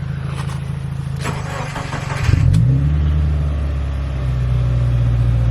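Turbocharged car engine, freshly tuned and fitted with an aftermarket intake, running steadily; about two seconds in its pitch rises quickly and it settles into a louder, higher idle.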